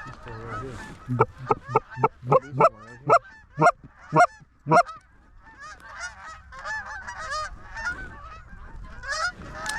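Geese honking: a run of about a dozen loud, close honks from about one to five seconds in, then fainter, overlapping honking from a flock.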